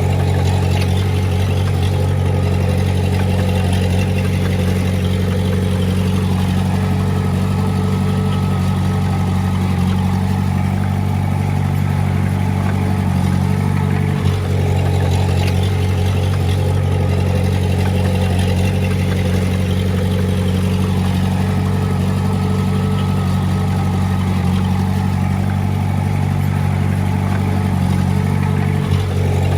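Heavy-equipment diesel engine running steadily at constant speed, with a brief dropout about halfway through and another near the end.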